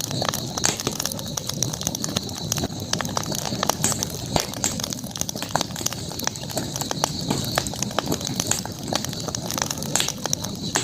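Campfire burning with irregular sharp crackles and pops from the burning wood over a low, steady rush of flame, with a thin steady high-pitched tone running underneath.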